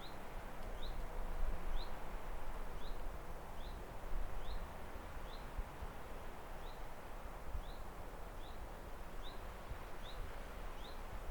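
A bird repeating a short, high, slightly falling chirp about once a second, over a steady hiss of outdoor background noise and a low rumble.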